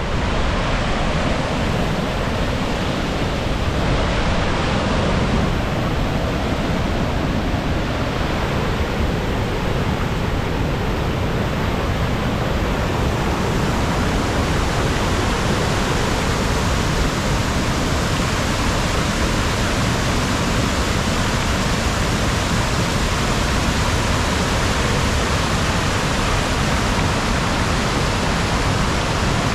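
Waterfall swollen by heavy rain, a loud, steady rush of water. The hiss grows sharper about halfway through.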